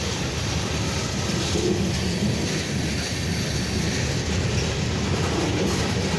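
Slow-moving freight train rolling past, a steady rumble of wheels on rail.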